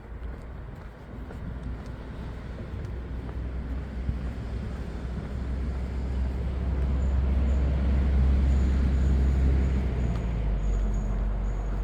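A road vehicle passing close by: a low engine and tyre rumble that swells gradually over several seconds, peaks, and eases slightly near the end.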